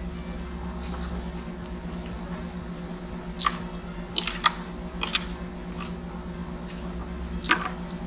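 Close-miked chewing of a mouthful of pancit noodles and pizza, wet mouth sounds with a few short sharp clicks and smacks, over a steady low hum.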